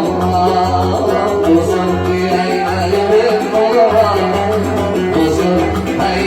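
Oud playing a Yemeni Sanaani melody, with a sustained low tone under it.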